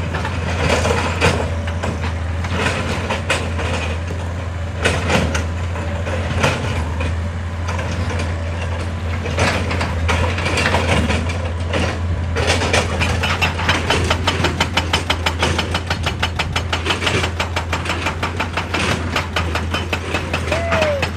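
Large excavator's diesel engine running under load with rock knocking and scraping. About halfway through, a rapid, even hammering starts at roughly ten blows a second, typical of a hydraulic rock breaker at work, and goes on until near the end.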